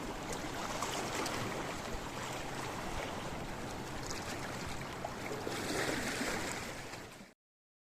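Sea waves washing over a rocky shore, a steady rushing of water with a surge about six seconds in. The sound fades and cuts off abruptly near the end.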